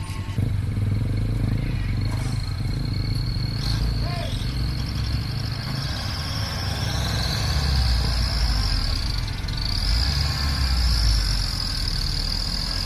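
Heavy truck's diesel engine running steadily under a low rumble, with a high, wavering whine over it from about three seconds in.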